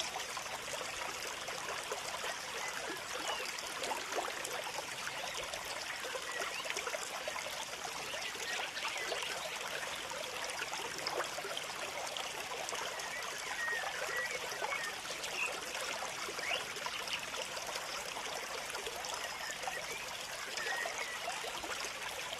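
Steady trickling of running water, with a few brief high bird chirps now and then.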